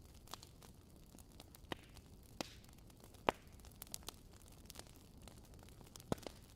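Fireplace fire crackling: scattered sharp pops and snaps over a low steady hiss, the loudest pop about three seconds in.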